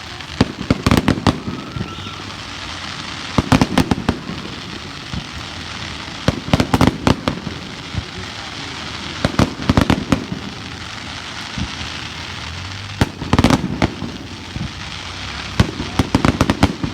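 Fireworks going off in clusters of rapid, sharp crackling bangs, one burst about every three seconds.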